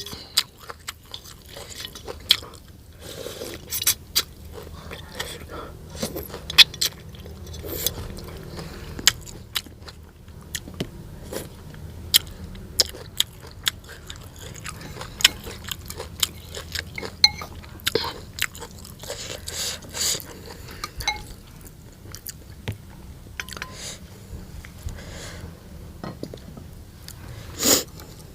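A person eating: irregular crunchy bites and chewing, with many sharp crackles, the loudest near the end.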